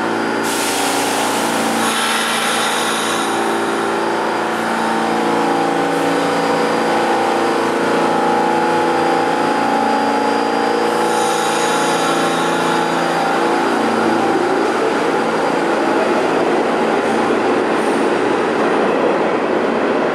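R32 subway train running out of the station: a steady motor whine with steel wheels on the rails. Two brief high bursts come about a second in and again around eleven seconds in, and the wheel-and-rail rumble grows rougher in the second half.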